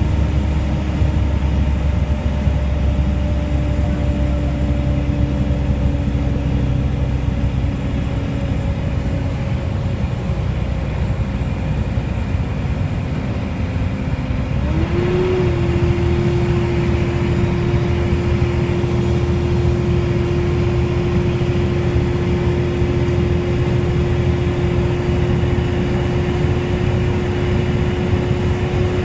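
Volvo B7TL bus engine running with its cooling fan making a loud vacuum-cleaner-like 'hoover' whine over the low engine note. The whine sinks slightly, then about halfway through steps up to a higher pitch and holds steady.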